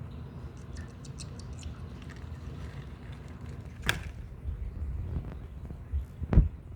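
Accidental knocks against the cockroach cage: a sharp tap about four seconds in and a heavier thump near the end, the loudest sound, over a low rumble of handling noise. Faint light ticks come in the first two seconds.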